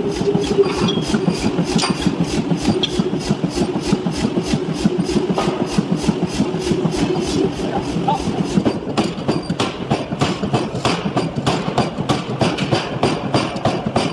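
Power forging hammer striking repeatedly at a steady, fast rate, about three blows a second, over a continuous machine rumble.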